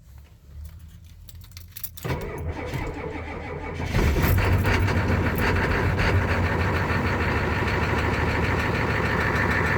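Ford 7.3 L IDI V8 diesel with a Banks Power Pack turbo, cold-started at about 30°F: a few light clicks, the starter cranking for about two seconds, then the engine catches about four seconds in and settles into a steady idle.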